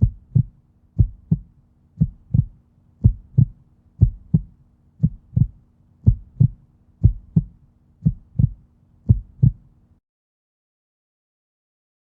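Heartbeat sound effect: about ten 'lub-dub' double thumps, roughly one a second, over a faint low hum, stopping about ten seconds in.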